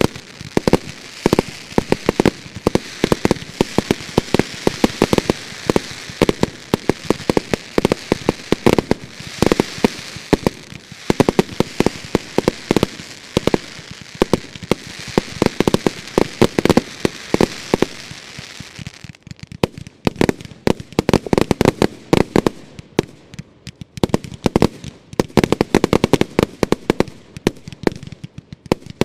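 Consumer fireworks finale: a rapid, dense string of bangs over a crackling hiss. About two-thirds of the way through, the crackle dies away and the bangs go on, more thinly spaced.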